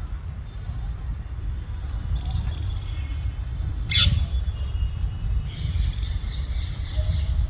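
Rose-ringed (ringneck) parakeets giving short squawks and screeches while play-fighting: a brief call about two seconds in, one loud sharp squawk about four seconds in, and a cluster of calls near the end, over a steady low rumble.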